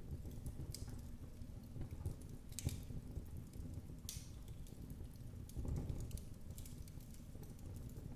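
Wood fire in a fireplace crackling, with scattered sharp pops and snaps, the sharpest about two and a half and four seconds in, over a low, steady rumble of the flames.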